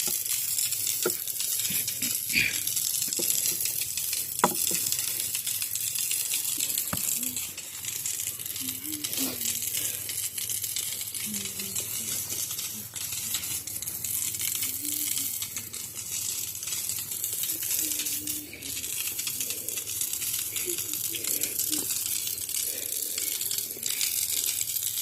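Maandazi dough frying in hot oil: a steady sizzle, with a few light clicks or knocks in the first few seconds.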